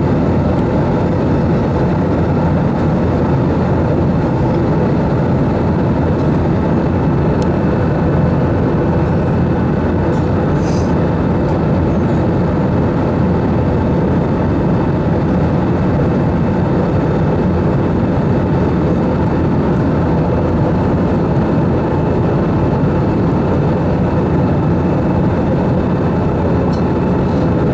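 Steady cabin noise inside an Airbus A320-214 with CFM56 engines, in flight on approach: an even rush of engine and airflow noise with a deep hum and a few faint steady tones.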